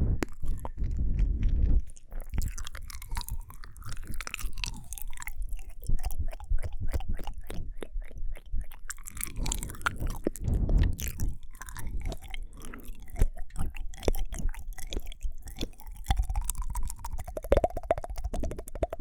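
Close-miked ASMR mouth sounds: a dense, irregular run of wet clicks and smacks from the tongue and lips.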